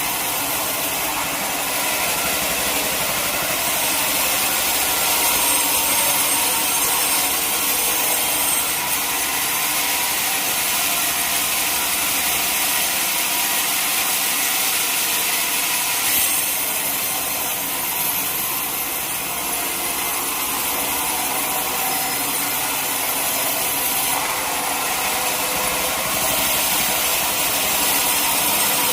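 Sawmill saw cutting through a teak log, a steady hissing cut with the motor running underneath, its texture shifting slightly every few seconds.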